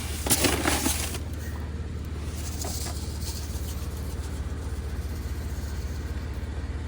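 De-icing rock salt being poured and scattered: a short gritty rattle in the first second and a fainter hiss about three seconds in, over a steady low hum.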